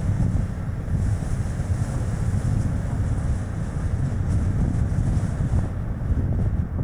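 Strong gusting wind buffeting the action camera's microphone as a deep, unsteady rumble, over the road noise of a moving small car.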